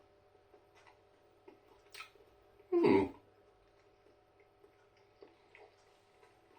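A short throat-clearing sound about three seconds in, against faint scattered clicks and a low steady hum.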